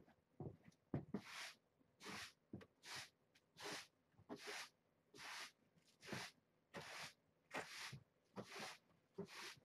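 Broom sweeping a floor: short, quiet swishing strokes, about one every three-quarters of a second.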